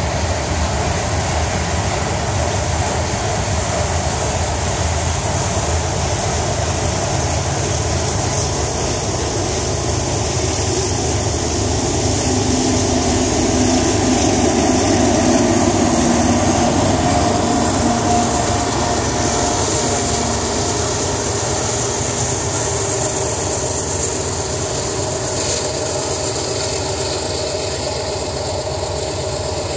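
Hopper cars of a long freight ballast train rolling past on the main line: a steady rumble of wheels on rail. It swells about halfway through and eases a little in the last seconds as the end of the train passes.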